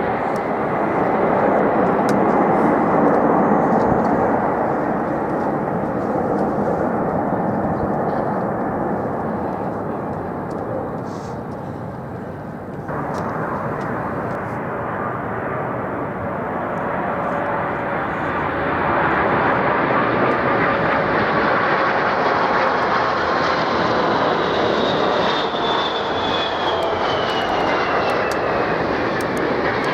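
Jet airliner engines passing low on the approach to land, a steady jet rumble. In the second half the sound swells and a high engine whine falls in pitch as the aircraft goes by.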